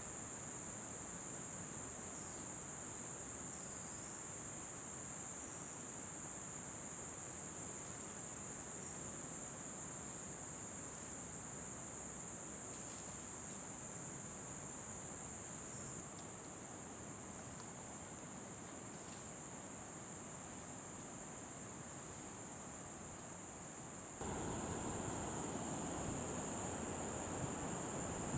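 Steady high-pitched insect chorus, a continuous drone over a soft low rustle of outdoor noise. The sound drops a little about halfway through, then about four seconds before the end it changes abruptly and a louder low wind noise joins the drone.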